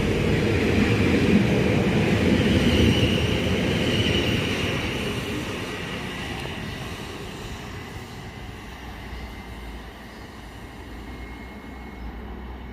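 A South Western Railway train running past on the line, loud for the first few seconds and then fading steadily as it moves away.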